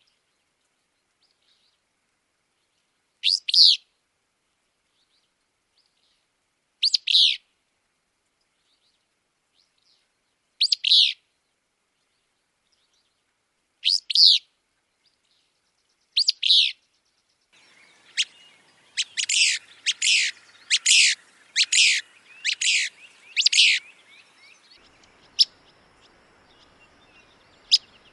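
Willow flycatcher singing its sneezing "fitz-bew" song, one short two-part phrase every three to four seconds. About two-thirds of the way in, a different recording with a faint hiss behind it takes over: a quick run of about eight notes, then a few single sharp notes near the end.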